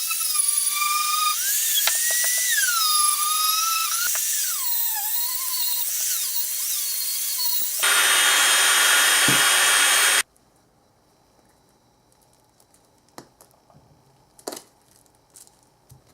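A high-speed rotary power tool whines, its pitch sagging and recovering as it is pressed into the work. About eight seconds in this gives way to a louder, even grinding rush, which cuts off suddenly around ten seconds, leaving near silence with a few faint clicks.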